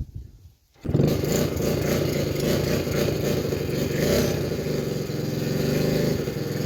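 110cc single-cylinder pit bike engine catching about a second in and then running steadily with a light clatter and small swells in speed. The engine is a smoker that the owner suspects has worn rings.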